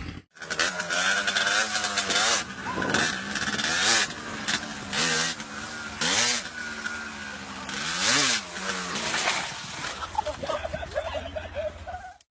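Motorcycle engine revving up and down several times, the pitch rising and falling in swells, with several sudden loud noises in between.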